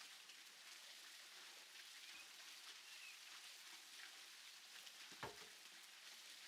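Near silence: faint outdoor ambience, an even soft hiss, with a single soft knock about five seconds in.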